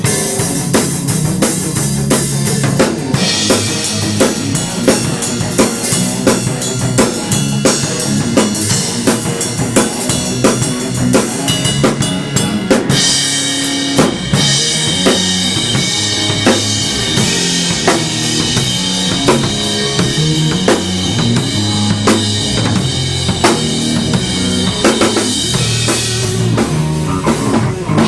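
Band music led by a drum kit playing a steady beat, with strikes in an even rhythm over a low, moving bass line.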